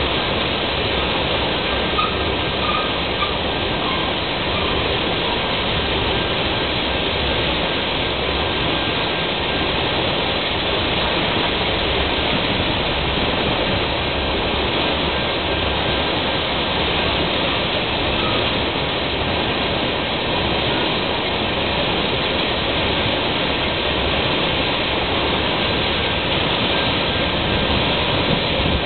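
Tank cars of a freight oil train rolling past on steel wheels: a steady rush of wheels on rail that holds even throughout.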